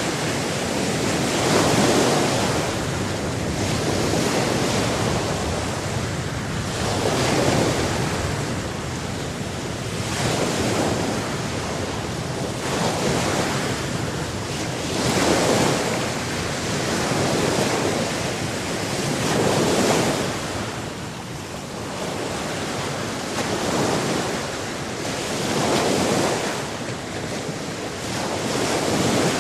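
Ocean waves breaking and washing on the shore, swelling and ebbing every few seconds, with wind.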